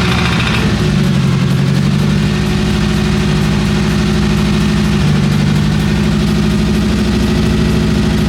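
Subaru EJ253 2.5-litre flat-four running steadily at idle, just after its first start following a DIY rebuild and reinstall. It runs a little loud, which the owner puts down to a probable exhaust leak at the headers.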